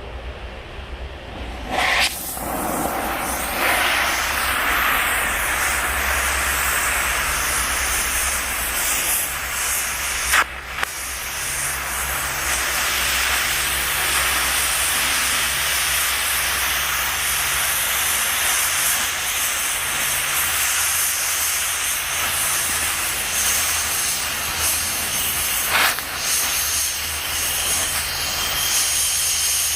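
Steady loud hissing of a cutting torch working on steel. It starts with a sharp click about two seconds in, with a low hum underneath, and gives short clicks around ten seconds and again near twenty-six seconds.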